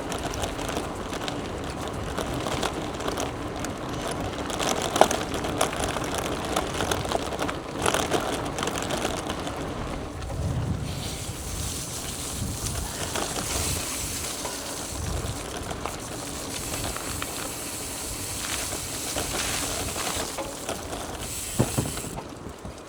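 Gravel bike's tyres rolling over a gravel trail, with wind noise on the microphone.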